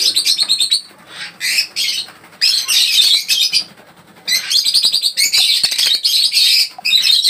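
Many small caged birds chirping and chattering in quick, trilling bursts, with short lulls between the bursts.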